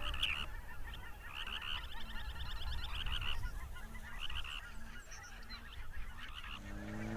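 A flock of geese calling, many overlapping honks repeated throughout over a low rumble.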